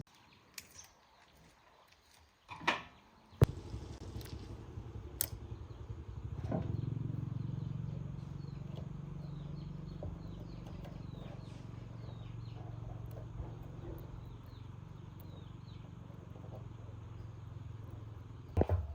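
Small birds chirping again and again over a steady low hum. The hum starts with a sharp click a few seconds in and grows louder a little later.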